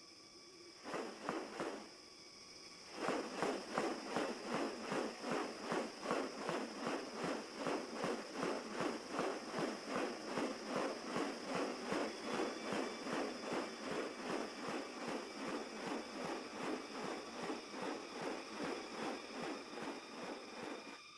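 Footsteps at a steady walking pace of about two to three a second, beginning about three seconds in after a couple of isolated steps, over a constant high, steady insect drone.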